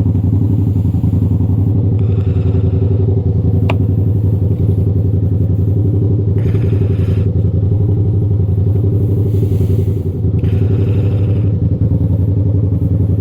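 Yamaha R7's 689 cc parallel-twin engine idling steadily through an iStunt aftermarket exhaust, with a few brief bursts of hiss and one sharp tick about four seconds in.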